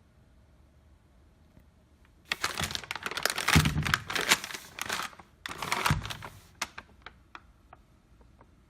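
Wrapping being crinkled and rustled in two bouts, the first about three seconds long and the second shorter, followed by a few light clicks.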